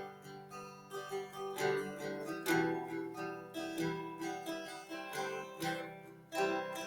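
Background music: plucked acoustic guitar playing a melody over a steady bass line, with notes picked several times a second.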